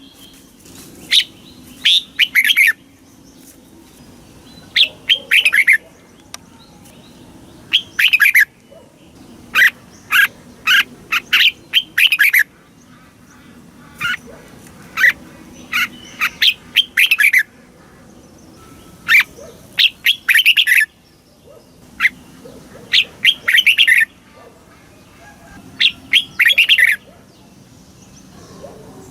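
Red-whiskered bulbul singing: short phrases of a few quick, clear, falling whistled notes, repeated every one to three seconds.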